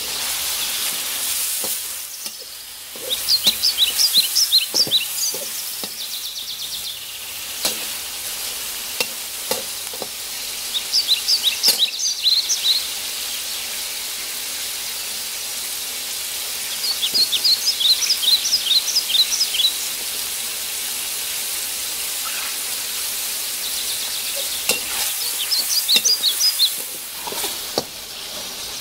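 Chicken pieces sizzling in hot oil in a steel wok, stirred and turned with a perforated metal spatula that clicks and scrapes against the pan. Rapid high chirping from a bird comes in four bursts over the sizzle.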